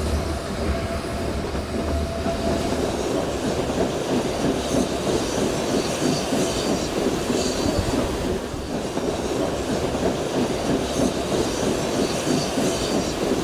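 Metre-gauge steam train's vintage carriages rolling along the track, heard from aboard: a steady rumble and rattling clatter of wheels on rails, with short spells of higher hiss or squeal.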